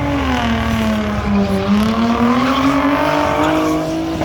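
Car engine revving: its pitch sags, then climbs steadily and holds high before falling off near the end.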